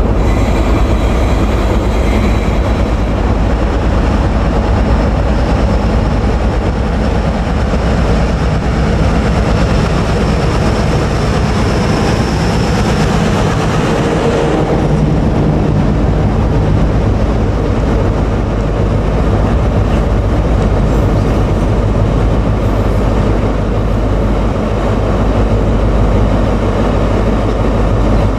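Class 60 diesel-electric freight locomotive approaching and passing at speed, its engine going by about halfway through. It is followed by the steady rolling rumble and clatter of a long train of box wagons running past on the rails.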